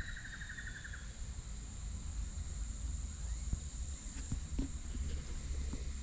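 Steady high-pitched insect drone from the creek banks, with a pulsing trill that stops about a second in. A low rumble and a few faint ticks lie underneath.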